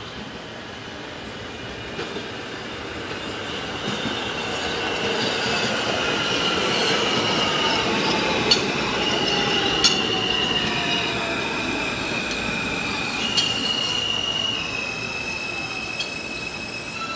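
New York City Subway R160 train with Alstom propulsion running by, its wheels squealing in steady high tones that step in pitch, with a few sharp clicks. Under the squeal the electric traction motors whine, falling in pitch, and the sound swells to its loudest midway before easing.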